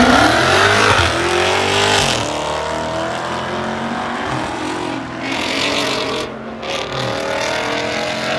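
Drag-racing car launching and accelerating down the strip. The engine's pitch climbs steeply, drops at a gear change about two seconds in, then climbs again more slowly as the sound grows fainter.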